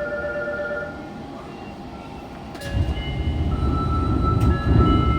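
Fukuoka City Subway 2000-series car standing at a station, heard from its floor. A few steady tones fade out after about a second. About two and a half seconds in there is a click, and a low rumble starts and grows louder.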